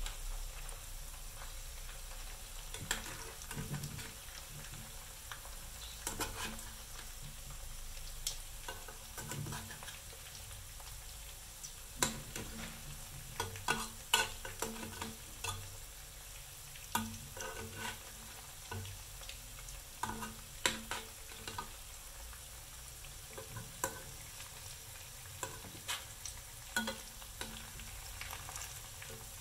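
Batter-coated rice balls frying in hot oil in a metal pan, giving a steady sizzle. Irregular clinks and scrapes come from a metal spoon knocking against the pan as the balls are turned.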